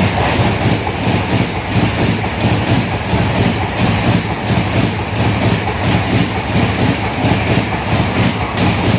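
Express train passing close at high speed, a loud, steady rush with its wheels clattering over the rail joints.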